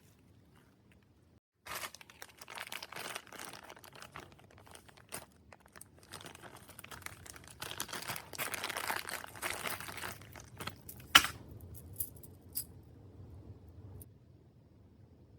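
Hands handling bearing parts and their packaging on a workbench: irregular crinkling and rustling with light metal clinks, and one sharp click about eleven seconds in.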